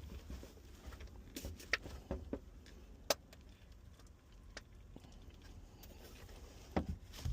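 Faint handling noises as ultrasound gel is squeezed into an in-hull transducer housing: scattered sharp clicks and light knocks, about half a dozen, a couple of seconds apart.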